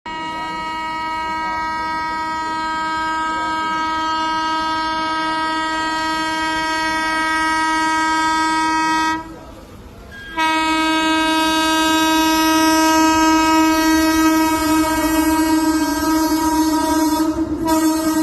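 Train horn blowing one steady, unchanging note in two long blasts: the first lasts about nine seconds, then after a pause of about a second the second holds on, with the rumble of the moving train beneath it.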